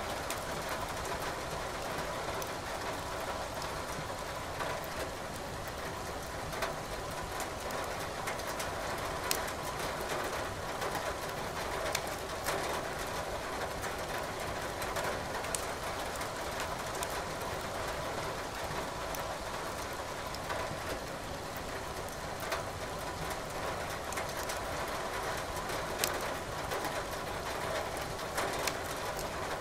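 Steady rain hiss with a wood fire crackling in a fireplace: sharp, scattered pops every few seconds over the even wash of rain.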